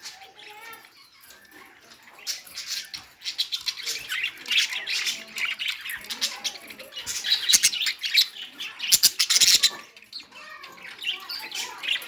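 A bird making harsh, noisy squawking sounds in bursts. They start about two seconds in and are loudest from about seven to ten seconds.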